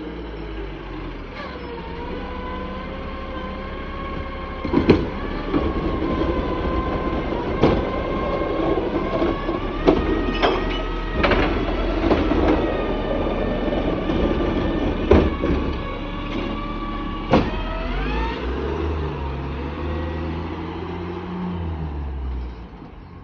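Garbage truck running with a steady hydraulic whine from its packer pump under load, broken by sharp clanks and bangs of metal and trash about every two or three seconds. Near the end the whine stops and the engine speed rises and falls.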